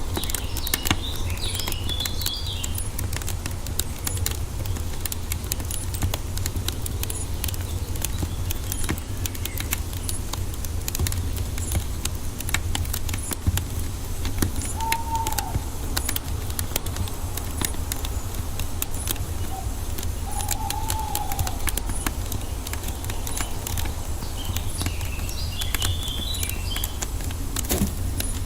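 Wood fire crackling with dense, irregular small pops over a low steady rumble. Birds chirp briefly near the start and again near the end, and two short whistled notes sound in the middle.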